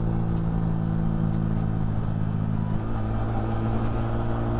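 Yamaha R15 V3 sport motorcycle's single-cylinder engine running at a steady cruising speed, a steady hum over rushing road noise.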